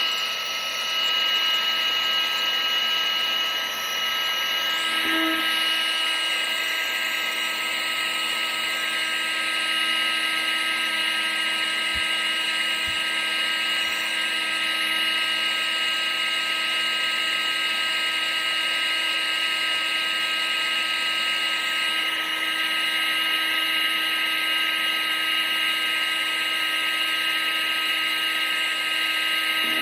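Vacuum cleaner running steadily: a high, unchanging motor whine over a rushing of air.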